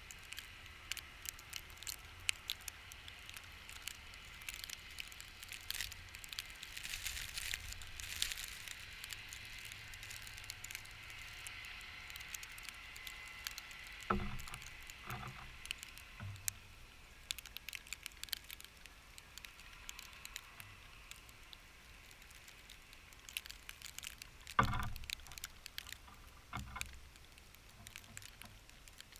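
Wind-blown snow ticking and pattering irregularly against a GoPro's housing, with wind buffeting the microphone and two heavier thumps, one about halfway through and one later.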